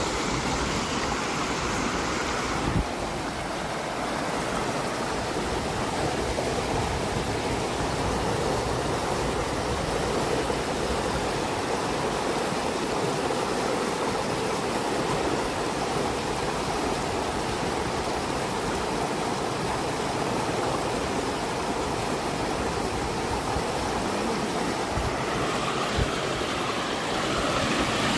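Fast river water rushing steadily, with a brief thump about three seconds in.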